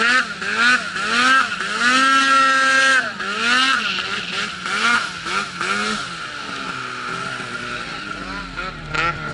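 Snowmobile engine revved hard in repeated short bursts, the pitch climbing and dropping about once or twice a second and held high for about a second once. After about six seconds it settles lower and fades.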